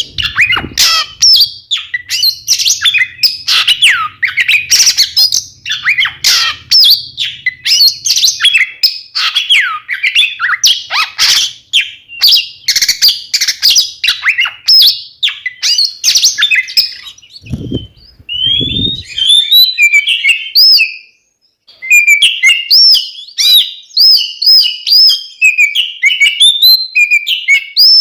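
Oriental magpie-robin (kacer) singing a loud, rapid, varied song of whistles, trills and chatter. About two-thirds through the song breaks off for two low thumps and a short pause, then resumes.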